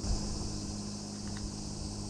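Steady high-pitched insect chorus over a low steady hum, with a soft knock right at the start.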